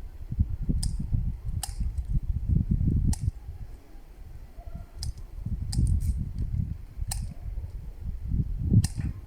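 Wind buffeting the microphone in irregular gusts, with scattered sharp clicks.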